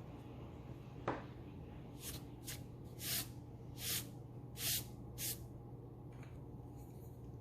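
Pencil scratching on paper in six short strokes, after a sharp click about a second in.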